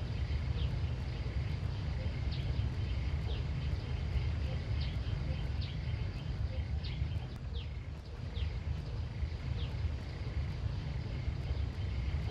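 Outdoor countryside ambience: a steady low rumble with many short, high chirps repeating irregularly over it, and a faint steady high hum.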